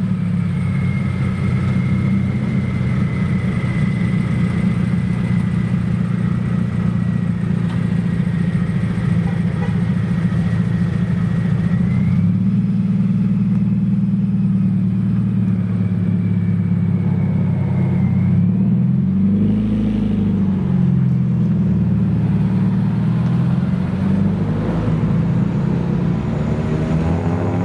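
Modified car engine running steadily at low revs, blipped up and back down briefly about two-thirds of the way through and again near the end.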